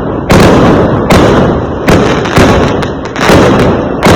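Fireworks exploding: five loud bangs in quick succession, about half a second to a second apart, each dying away before the next.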